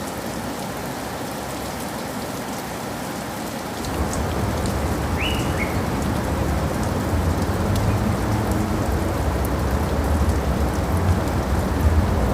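Steady rain falling, with scattered drop ticks. About four seconds in, a deep low rumble of thunder comes in and swells. A brief high chirp sounds just after it.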